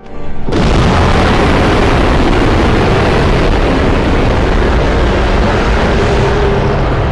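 Custom Galactus roar sound effect: a long, loud rumbling roar that swells in suddenly out of silence within the first half second and holds steady, with a few faint steady tones coming in near the end.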